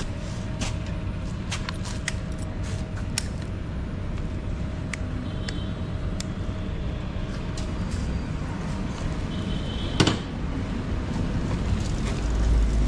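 Bajaj Pulsar N250's single-cylinder engine running with a steady low rumble, scattered clicks and one sharp knock about ten seconds in. The rumble swells near the end.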